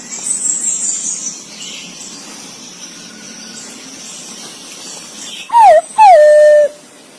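Green pigeon (punai) calling: a short falling whistle about five and a half seconds in, then a louder, longer whistle that drops and holds one steady note. Before the calls there is only faint hiss.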